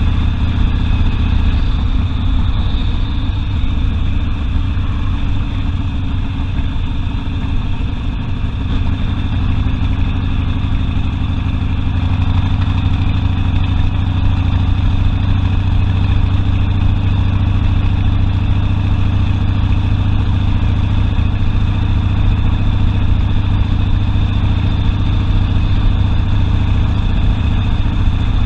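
Harley-Davidson Sportster V-twin engine running at a steady, low, even exhaust note.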